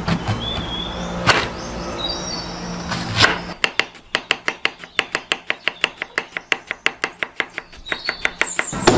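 Two single knocks, then about three and a half seconds in a knife starts chopping on a cutting board in fast, even strokes, about six a second, stopping just before the end.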